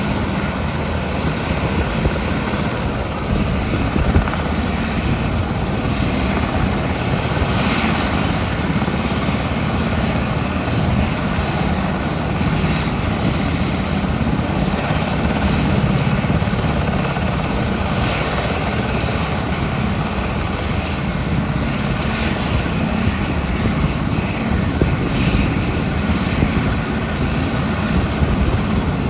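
A JMSDF SH-60K helicopter's rotors and twin turboshaft engines running in a steady, loud drone.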